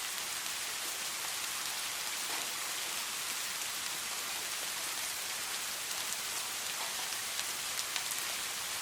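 Steady rain falling, a dense even hiss with scattered individual drops ticking on surfaces.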